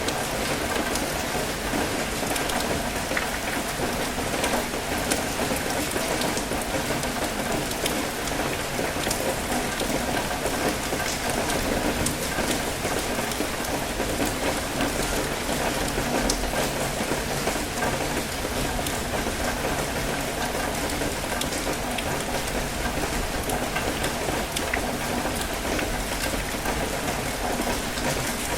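Steady light rain pattering, with many small drop ticks, over a continuous wash of water.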